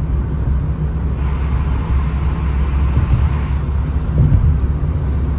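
Road noise of a car driving in traffic, heard from inside: a steady low engine and tyre rumble, with the hiss of a passing vehicle swelling for about two seconds in the middle.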